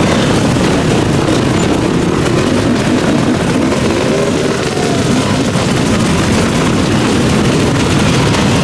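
Many off-road motorcycle and quad engines running together, with several of them revving up and down.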